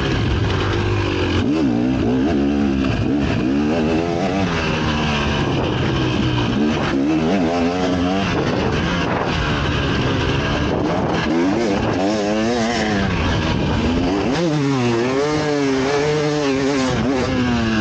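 KTM 300 SX two-stroke motocross bike engine being ridden hard, its revs rising and falling over and over as the throttle is opened and closed.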